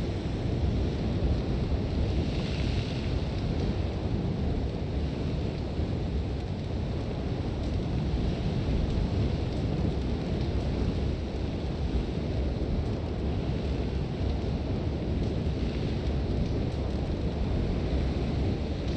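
Sandstorm wind blowing hard, a deep steady rumble with a hiss of blown sand above it that swells briefly about two and a half seconds in and again near the end.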